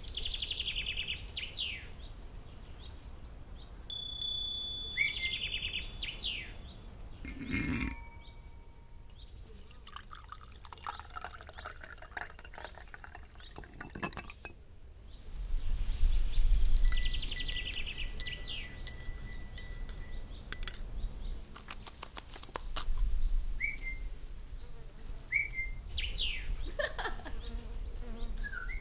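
Small birds chirping on and off, some calls quick trills, others short rising or falling notes. A low rumble swells twice in the second half and is the loudest sound.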